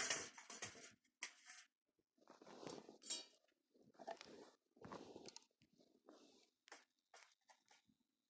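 Faint, irregular rustling and crackling bursts from fuel being handled and fed to a campfire.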